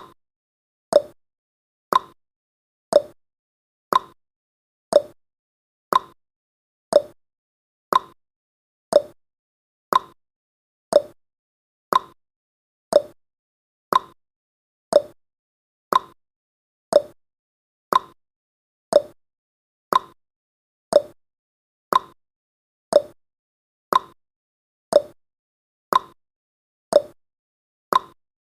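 Countdown timer's ticking sound effect: a sharp, clock-like tick once a second, at an even pace and level.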